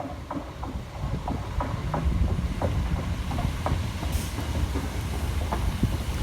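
A train moving on the track: a low rumble that builds about two seconds in, with the wheels clicking irregularly over rail joints, and a brief hiss about four seconds in.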